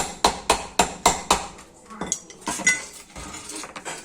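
A hammer striking metal parts of a sugarcane press: a quick run of about six sharp metallic strikes, then several lighter, scattered clinks.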